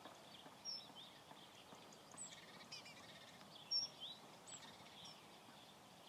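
Faint birdsong: scattered short, high chirps and whistled notes from wild birds over a quiet outdoor hiss, with one sharper chirp a little after the middle.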